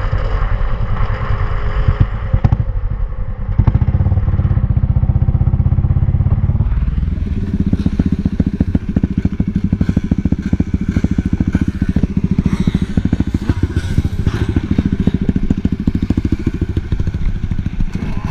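Motorcycle engine running. Its pitch drops as it slows at first, then from about seven seconds in it runs steadily at low revs with an even, rapid pulse.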